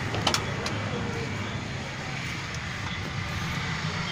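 Maruti 800's three-cylinder petrol engine idling steadily, with two sharp clicks in the first second.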